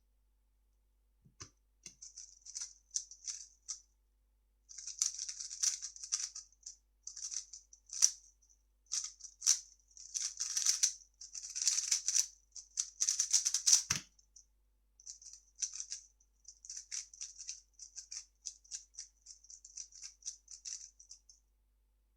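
3x3 speedcube being turned rapidly: a dense clatter of plastic layers clicking in quick bursts with brief pauses. A single low thump comes about fourteen seconds in, followed by lighter, sparser turning until the sound stops near the end.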